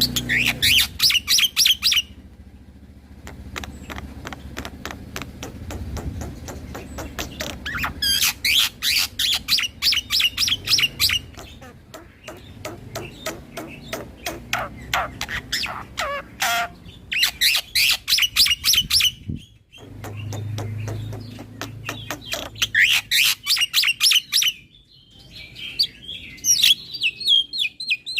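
Black-winged myna (jalak putih) singing in loud bursts of fast, rolling chattering notes, each burst about two seconds long, separated by stretches of quieter rapid clicking.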